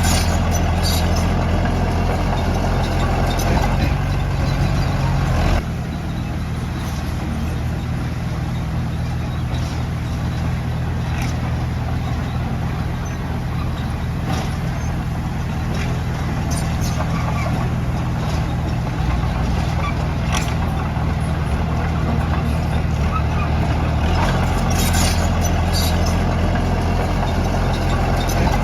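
Heavy diesel earthmoving machinery running steadily, its engine easing off about five and a half seconds in and picking up again near the end, with scattered clanks.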